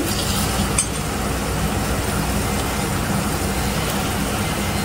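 Chicken pieces frying in a steel pan, a steady sizzle over a low steady hum, with a single metallic clink about a second in.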